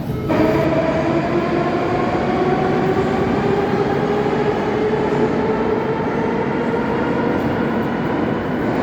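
Moscow Metro train's electric traction motors whining as the train accelerates: several tones rise steadily in pitch over the rumble of the wheels on the rails.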